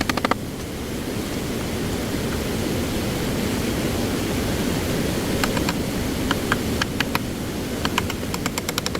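Stream water rushing steadily, with short runs of quick sharp taps or clicks near the start and again in the second half.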